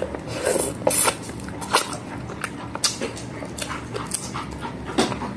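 Close-up eating sounds of crispy fried dried fish (tuyo) being bitten and chewed by hand: a string of short crunches and mouth smacks at irregular intervals.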